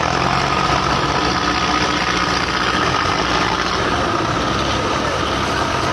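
Belarus 510 tractor diesel engines running steadily.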